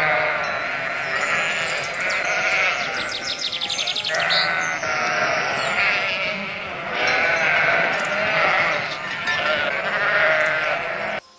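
Sheep bleating loudly, one long wavering call after another with hardly a pause. About three seconds in, one call breaks into a fast, pulsing tremble. The bleating cuts off suddenly near the end.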